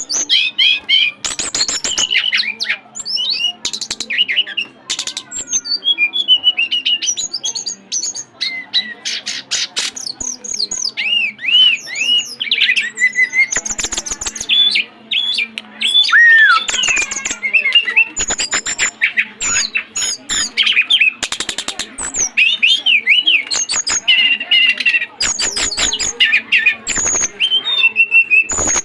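Caged songbird singing hard: a long, varied song of rapid chirps, whistled notes and buzzy click-like trills.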